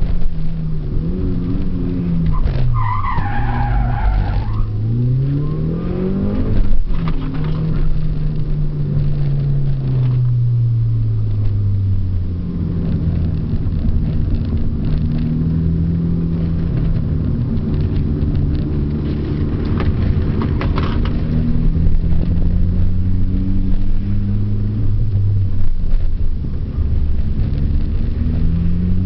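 Mitsubishi Lancer Evolution IV's turbocharged four-cylinder engine at track pace, its pitch rising through the gears and dropping under braking and downshifts. The tyres squeal briefly about three seconds in and again around twenty seconds, with a sharp knock near seven seconds.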